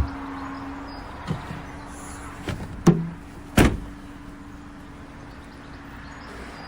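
Knocks and thumps at a Fiat Tipo's boot as it is closed up: several short knocks, then a heavier slam about three and a half seconds in, over a steady low hum.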